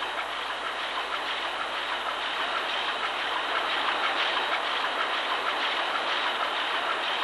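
A large two-stroke crosshead marine diesel engine running steadily, filling the engine room with continuous mechanical noise.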